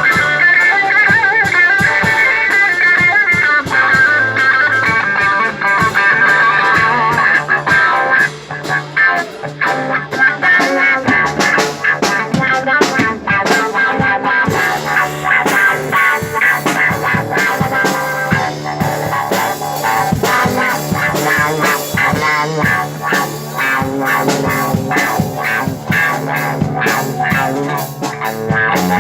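Live instrumental rock from electric guitar and drum kit: sustained guitar lines open the passage, then after a short drop about eight seconds in the drums come in with dense hits under the guitar.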